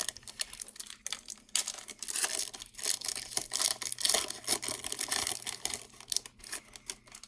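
A trading card pack wrapper being torn open and crinkled, with the irregular crackle of the wrapper being handled.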